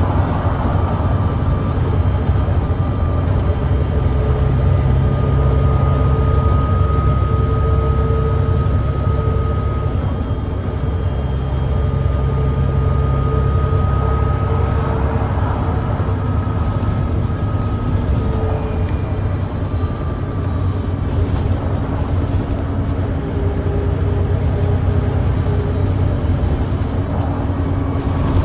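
Volvo D9B 9.3-litre diesel engine of a Volvo B9TL double-decker bus running under way, a deep steady rumble with a thin whine that holds for several seconds at a time. The bus has an exhaust leak.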